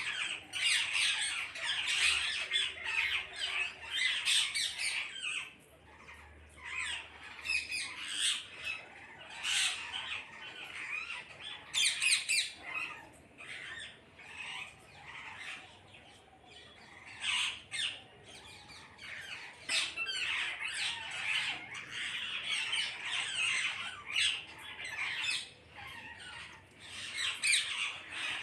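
A flock of parrots squawking and chattering, many harsh calls overlapping, swelling and easing in waves with a few briefly quieter spells.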